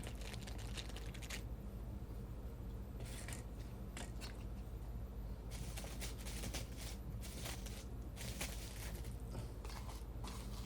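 Quiet eating and table sounds: scattered light clicks and scrapes of tableware and food being handled, over a steady low room hum.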